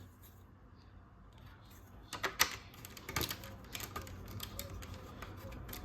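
LEGO pieces clicking and clattering as they are handled and pressed together, a run of sharp irregular clicks starting about two seconds in.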